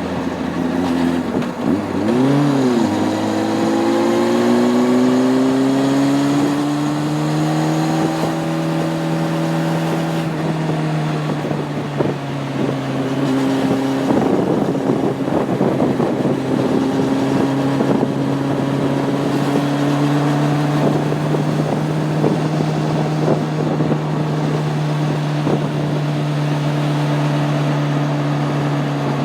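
Honda CB600F Hornet's inline-four engine on the move. A quick rev blip comes about two seconds in, then the note climbs steadily as the bike accelerates and settles into a steady cruise from about ten seconds on.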